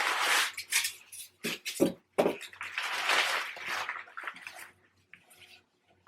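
Packaging rustling and crinkling as a boxed tiered tray is unpacked, with a few short knocks a second or two in; the handling quietens near the end.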